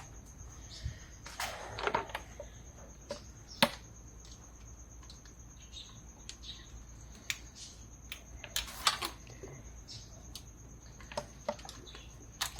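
Irregular metallic clicks and knocks of a spanner and fingers working a stubborn bolt free on a plastic thermostat housing in an engine bay, with a sharper knock about three and a half seconds in and a cluster of clicks around nine seconds.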